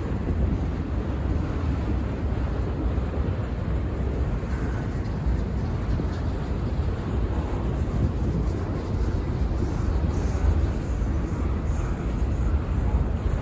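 Freight train rolling past: a steady low rumble of wheels on rail.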